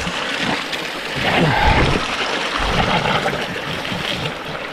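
Steady rush of water pouring into a hot spring pool from a pipe and a small waterfall, with irregular low bumps.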